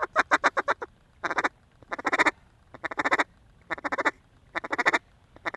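Mallard duck call blown in quick, loud bursts of quacks: a fast run of short notes, then a steady series of clustered quacks about once a second, calling circling mallards down to the decoys.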